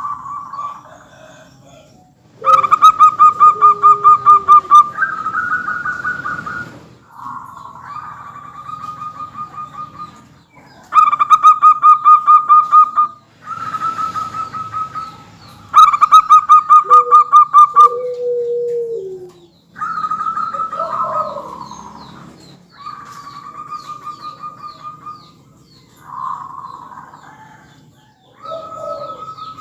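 Zebra doves (perkutut) singing: phrase after phrase of fast, pulsed cooing notes, several birds taking turns at slightly different pitches. The loudest phrases come about three seconds in, around twelve seconds and around seventeen seconds.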